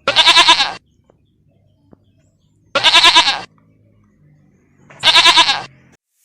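A goat bleating three times, each call lasting under a second with a wavering, quavering pitch, spaced a couple of seconds apart.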